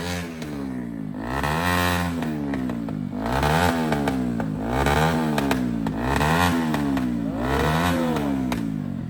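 Superbike engine revved again and again, its pitch climbing and dropping about seven times, with a few sharp exhaust pops, a crackle called "pata pata pata pataki" (firecracker-like).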